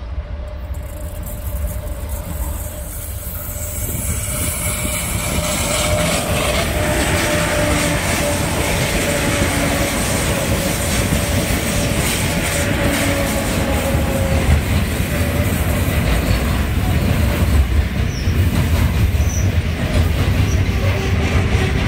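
Transnet class 18E electric locomotives hauling a container freight train approach and pass close by, growing louder over the first six seconds. A steady high tone runs through roughly the first two thirds, over the continuous rumble and clatter of the wagons' wheels rolling along the rails.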